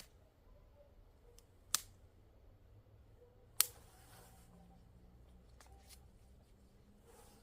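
Three sharp snaps about two seconds apart over a quiet background, the second and third the loudest.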